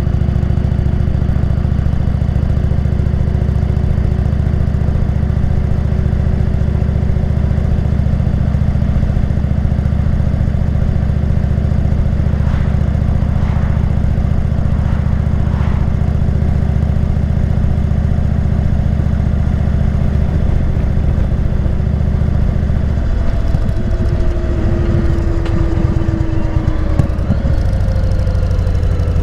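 Indian motorcycle's V-twin engine running steadily while riding, its pitch sliding down over the last few seconds as the bike slows.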